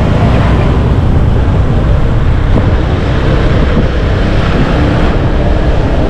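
Steady wind rush over the microphone and road noise from riding on the back of a moving motorcycle taxi.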